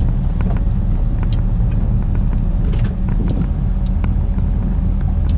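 Steady low rumble with a few faint scattered clicks and ticks over it.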